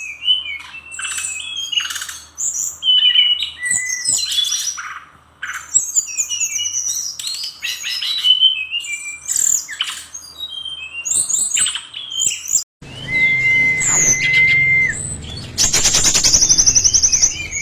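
Fulvous-chested jungle flycatcher singing a fast, varied run of high chirps, slurs and trills. About thirteen seconds in, it changes to another recording with more background noise: one long steady whistle, then a rapid rattling trill.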